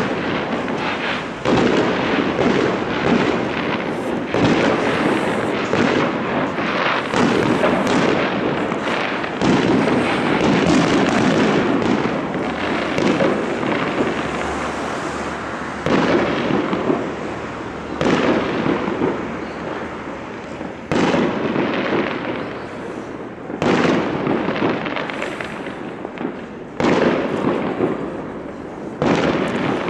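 Aerial New Year fireworks going off continuously: many overlapping bangs and crackles, with new loud volleys every few seconds.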